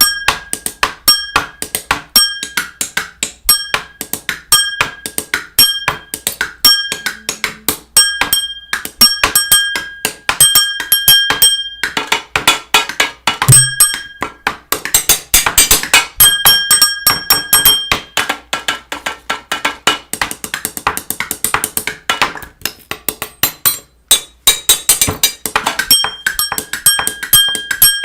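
Rapid, irregular clicking and knocking with a short high ringing tone recurring about once a second; it thins out near the end.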